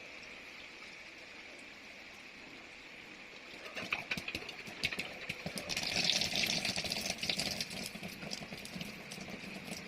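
Water running through the filter housings of a portable alkaline water purifier, a faint steady hiss at first. From about four seconds in it grows louder and is joined by scattered light clicks and knocks.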